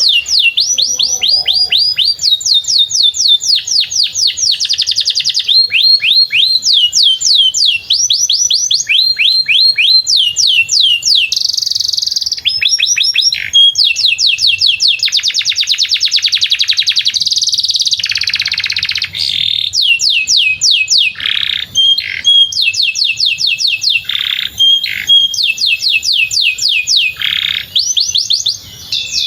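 Domestic canary singing a long, unbroken song: runs of rapid, high, downward-sweeping whistled notes alternating with fast buzzy trills and rolls.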